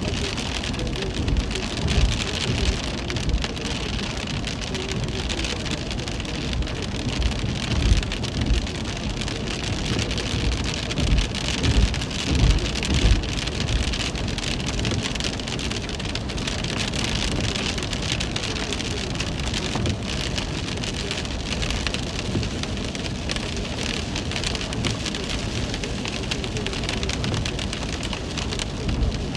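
Heavy rain falling steadily, with irregular low rumbles in bursts during the first half.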